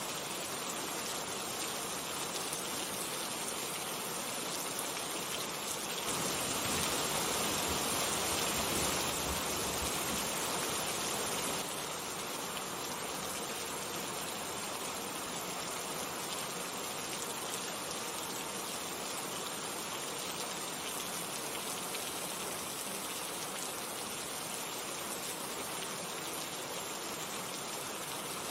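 Steady rain falling, an even hiss of drops. About six seconds in it grows louder for several seconds, then drops back suddenly to its earlier level.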